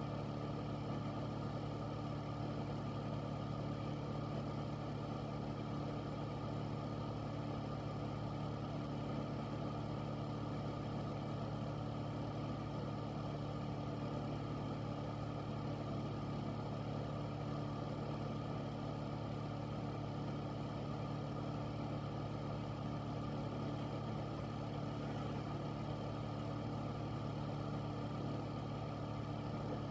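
Air filter's fan running steadily: a constant low hum over an even rush of air.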